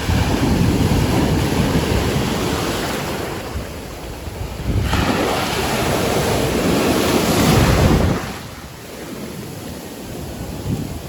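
Sea waves washing onto the shore, swelling twice and then dropping off about eight seconds in, with wind buffeting the microphone.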